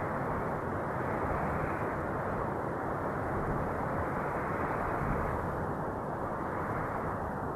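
Wind blowing as a steady, low rushing, swelling and easing slowly every few seconds.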